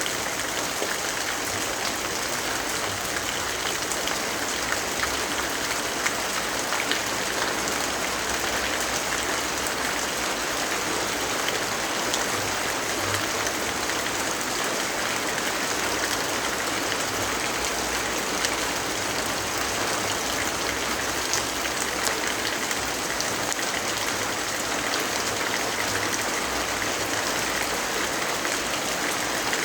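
Steady rainfall: an even, unbroken hiss with scattered small ticks of drops.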